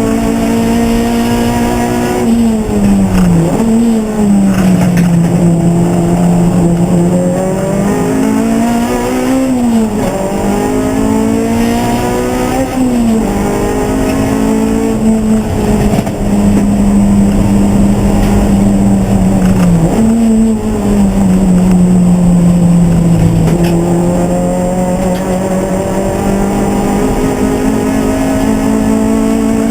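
Race car engine running hard, its revs climbing and dropping several times as the car accelerates and shifts gears or lifts off.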